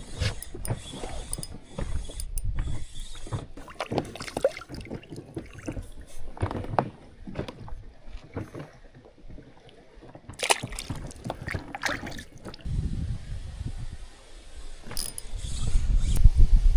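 Irregular knocks, clicks and clatters from something being handled or worked, with a low wind rumble on the microphone building near the end.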